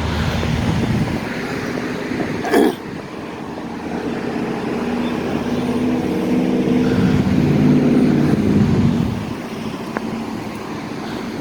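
A motor vehicle passing on the road, its engine growing louder through the middle and fading away near the end, over steady traffic noise. A short sharp knock sounds about two and a half seconds in.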